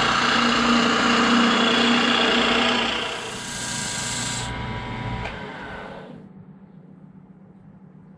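Wood lathe running while a turning tool cuts an ash spindle for a bench leg, a steady motor hum under the hiss of the cut. The cutting stops about four and a half seconds in, and the lathe winds down about a second later.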